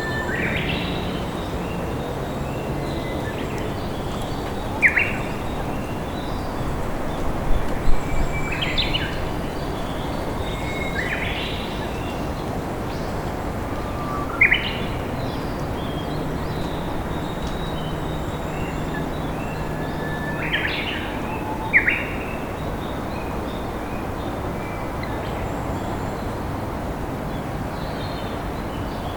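Steady rush of a flowing river, with short chirps and calls from wild birds every few seconds over it.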